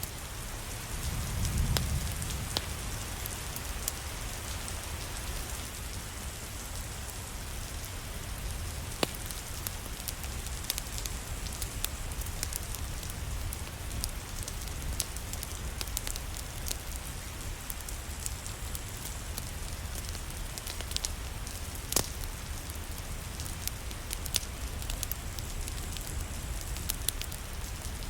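Steady rain falling, with scattered sharp crackles and pops from a wood fire in a fireplace. A brief low rumble comes about a second and a half in.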